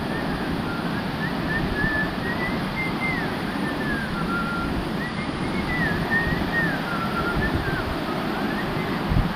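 Steady rushing of water from small waterfalls, with a thin whistled tune wandering up and down above it in short gliding phrases.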